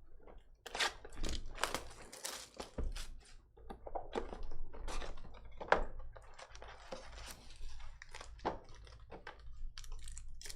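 Trading cards and their packs being handled: a quick, irregular run of clicks, snaps and rustles, with a short crackly rustle about seven seconds in.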